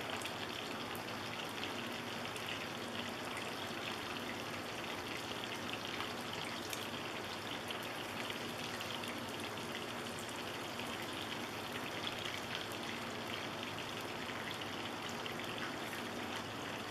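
Hot oil sizzling and crackling steadily in a cast iron skillet as cornstarch-battered squirrel pieces flash-fry at about 350 °F.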